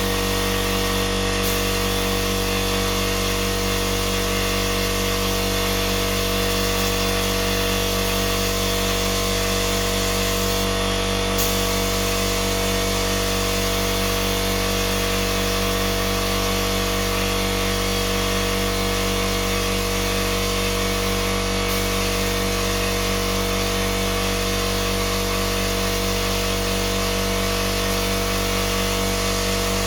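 An electric power tool's motor running continuously at a constant speed, a steady pitched hum with no change in level.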